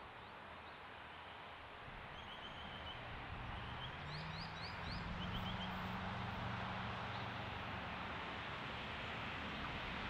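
Birds chirping in short quick runs over a faint outdoor hiss, while a distant train's engine hum comes in about four seconds in and grows steadily louder as the train approaches.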